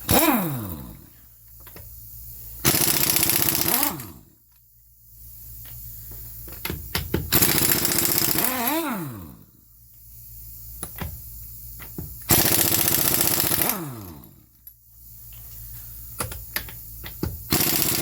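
Impact wrench loosening wheel lug nuts: four bursts of rapid hammering, each about one and a half seconds long, and after each one the motor winds down with a falling whine.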